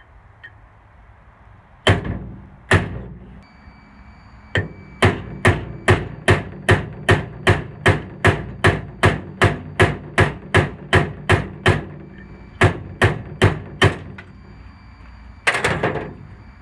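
Hammer striking a steel punch to drive the rivets out of a flywheel's worn starter ring gear: two blows, then a steady run of about two or three blows a second, a short pause and four more. A louder, longer clatter near the end.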